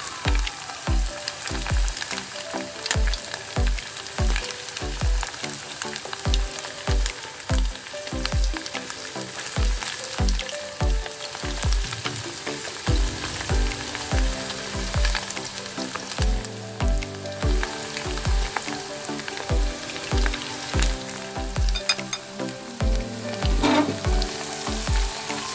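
Ribs deep-frying in a pot of hot oil, a steady sizzling, under background music with a regular bass beat.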